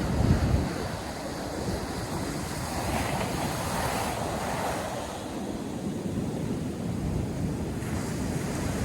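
Ocean surf breaking on a sandy beach, a continuous wash of waves with a swell of hiss from a breaking wave near the middle, and low rumbling wind buffeting on the microphone, strongest in the first second.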